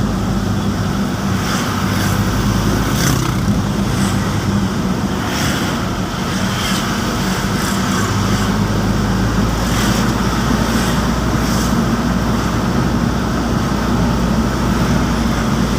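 Truck engine running steadily under way, a constant low hum with road noise.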